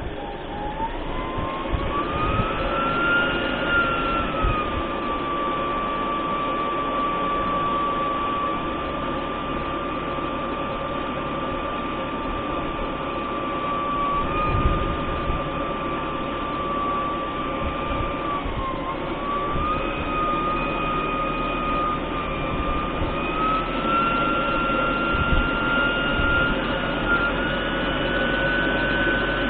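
MTZ-892 tractor's four-cylinder diesel running steadily while driving, with a high whine on top. The whine climbs over the first few seconds, holds level, dips briefly about two-thirds of the way through, then climbs again near the end.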